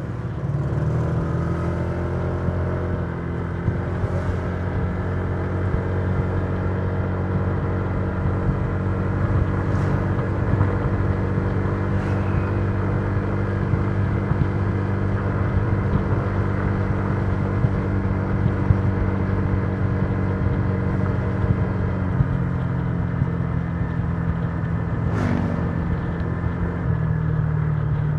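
Honda Giorno 125 scooter's single-cylinder four-stroke engine running steadily while cruising. The engine note drops a little about three-quarters of the way through and picks up again near the end.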